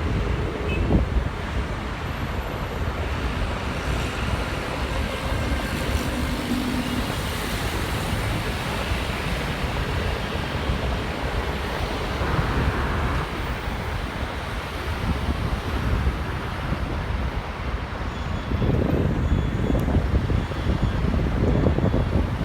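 Jet aircraft engines rumbling, with wind buffeting the microphone; a higher hiss swells for a few seconds near the middle.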